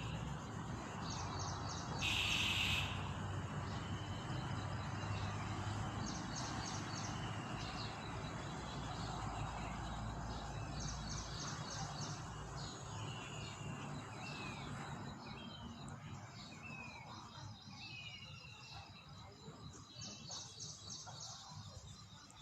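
Small birds chirping repeatedly, some with short falling notes, over a steady rushing background noise that fades toward the end; a brief louder high call comes about two seconds in.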